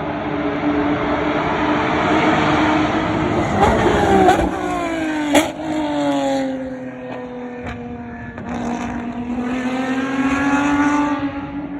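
Lamborghini race car engine running hard. Its pitch drops about halfway through with a single sharp crack, holds lower, then climbs again near the end.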